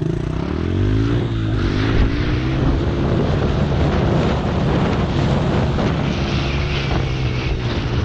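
Yamaha TTR-110 pit bike's small single-cylinder four-stroke engine running, its pitch rising and falling in the first second or so, then holding steady.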